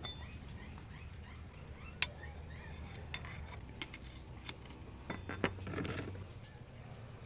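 Hand tools clinking: a handful of light metallic taps and clinks spread over several seconds, the loudest about two seconds in, over a faint low hum.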